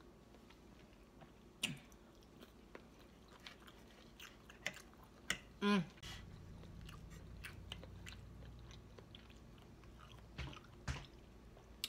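A person chewing and biting into soft chicken thighs and mushrooms close to the microphone, with scattered wet mouth clicks and smacks. A brief hummed vocal sound comes about six seconds in.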